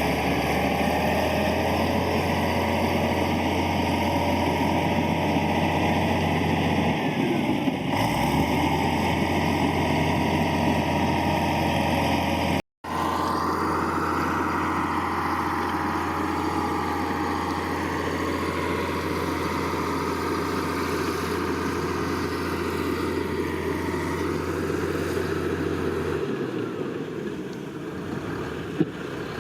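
Heavy diesel earth-moving machinery running steadily, a deep engine hum with clatter over it. The sound cuts out for an instant about thirteen seconds in, then carries on.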